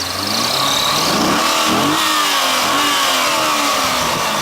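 2005 C6 Corvette's 6.0-litre LS2 V8 revved from idle. It rises in pitch until about two seconds in, then falls back gradually toward idle. The engine is running without knocks or ticks.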